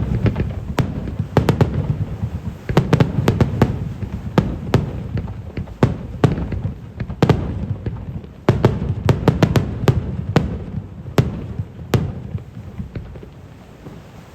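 Fireworks display: aerial shells bursting in rapid, irregular succession, with many sharp bangs over a continuous low rumble that swells and fades in waves and thins out near the end.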